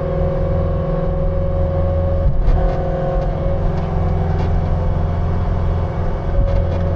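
An engine running steadily at constant speed, with a few light knocks or rattles near the middle.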